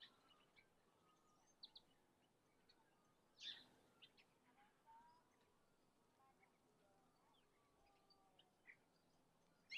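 Faint outdoor quiet with small birds chirping here and there in short, scattered calls, the loudest about three and a half seconds in and again near the end.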